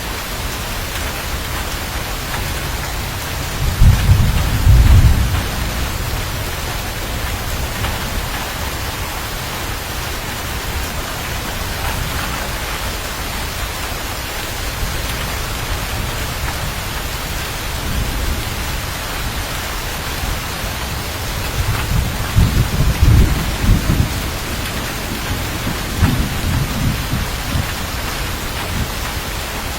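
Heavy steady rain with rolls of thunder, one about four seconds in and a longer one in the last third, rumbling low under the rain.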